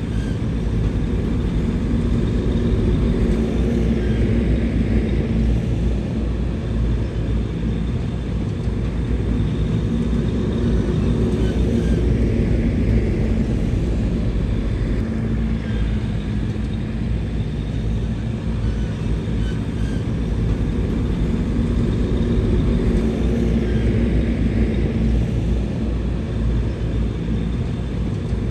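Diesel engine of heavy earthmoving equipment running steadily under load, a deep rumble that swells and eases every several seconds as the machine works.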